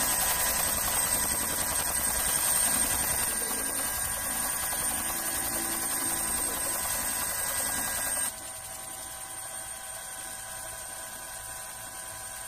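Helicopter in flight: steady turbine and rotor noise with a high, constant whine. The sound drops abruptly to a quieter level about eight seconds in.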